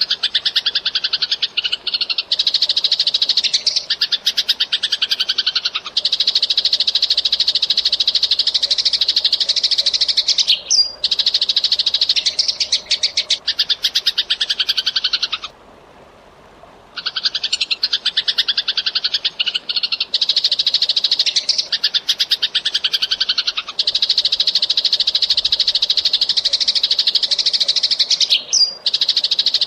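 Eurasian tree sparrows chirping in fast, dense runs of rapid chirps, with a break of about a second and a half just past halfway.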